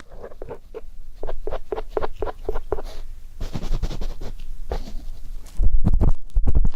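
Ear pick scratching and rubbing against the microphone in ear-cleaning ASMR. It starts as a quick run of small scratching strokes, about five a second, and becomes louder, low rumbling rubs near the end.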